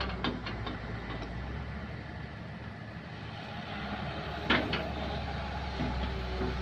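Kobelco excavator's diesel engine running steadily, its low note easing off in the middle and picking up again near the end. A few light clicks in the first second and a sharp knock about four and a half seconds in, followed by a weaker one.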